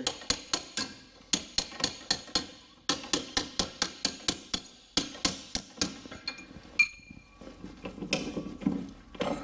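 Hammer striking a steel punch to drive out the strut bolt on a Mercedes E55's air-suspension front end: sharp metallic blows, about three or four a second, in several quick runs with short pauses. About seven seconds in, a single strike rings briefly, and then the blows stop.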